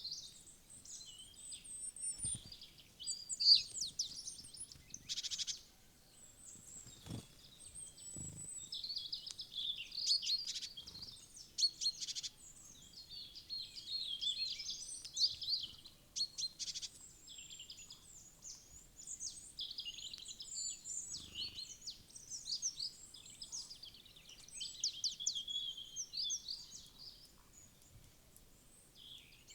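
Many small woodland songbirds chirping and calling over one another, high-pitched and without a break, with a few faint dull knocks among them.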